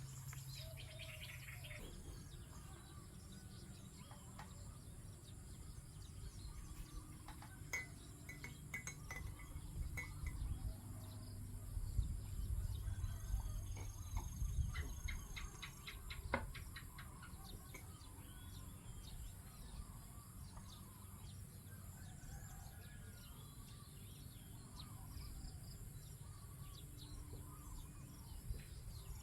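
Several small birds chirping and calling over open rice paddies: scattered short chirps, a run of quick repeated notes about eight seconds in and a rapid trill around the middle. A steady high hiss runs under them, and a low rumble swells around the middle.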